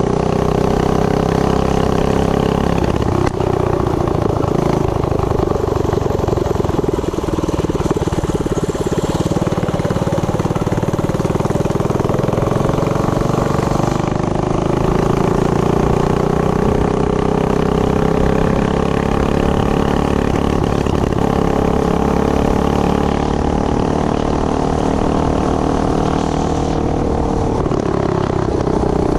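Tillotson 212 single-cylinder four-stroke engine on a Coleman CT100U mini bike running continuously, its pitch drifting slowly up and down, with short dips about three seconds in and near the end. It is being tuned while running without an air filter.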